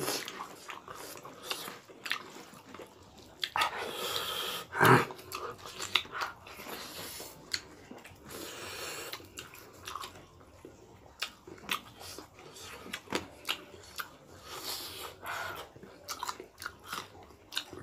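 Mukbang eating sounds: people chewing food, with many small irregular mouth clicks and a louder mouth sound about five seconds in.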